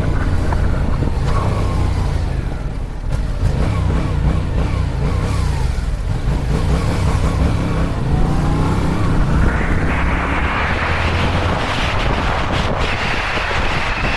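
Yamaha MT-07's 689 cc parallel-twin engine running under way, its note rising and falling with throttle, over wind rush that grows louder in the second half.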